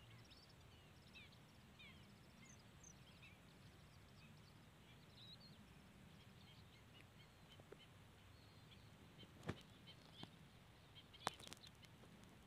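Faint, scattered chirps of small birds over a low steady rumble, then a few sharp knocks near the end, the loudest about eleven seconds in.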